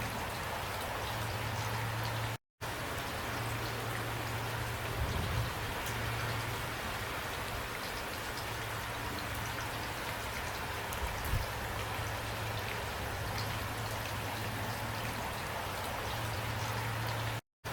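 Steady rain falling, an even hiss with scattered individual drops pattering, over a low steady hum. The sound cuts out for a split second twice, once about two and a half seconds in and once near the end.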